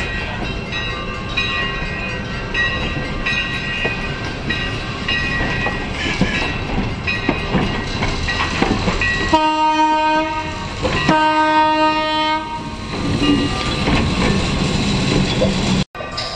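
An electric trolley car rolling along the track with thin, high wheel squeals. About halfway through it sounds its horn in two blasts, each a second or more long.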